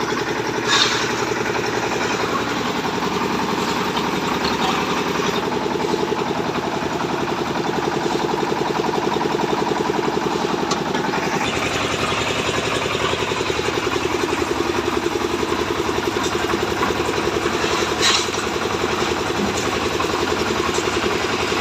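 An engine running steadily with a fast, even pulse; its sound shifts about halfway through. Two brief knocks stand out, about a second in and again near the end.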